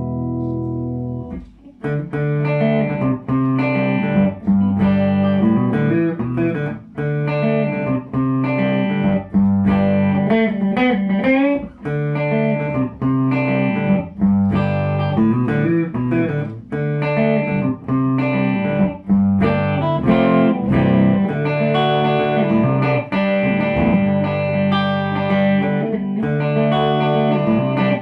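Yamaha Revstar RS320 electric guitar with ceramic humbuckers played through a small valve amp: a run of chords and single-note lines with brief pauses between phrases.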